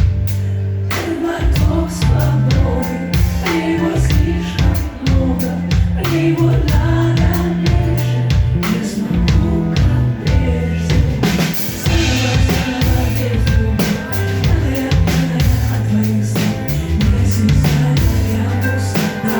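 Live pop-rock concert music: a band with drums and bass guitar playing loudly, with singing over it.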